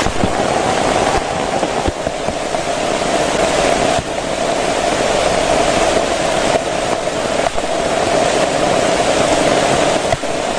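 Heavy rain falling steadily, with a few faint ticks of drops.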